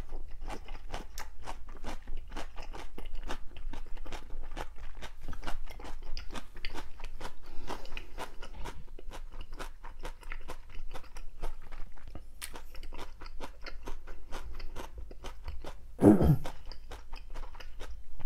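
Close-miked mouth chewing of a sticky, gelatinous mouthful of pyeonyuk (pressed boiled pork), with wet clicking smacks about two to three a second. A louder, lower mouth sound comes about sixteen seconds in.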